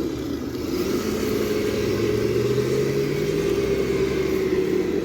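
Traxxas TRX6 RC crawler's electric motor and drivetrain whining as it drives, a steady whine that rises slightly in pitch partway through and cuts out near the end.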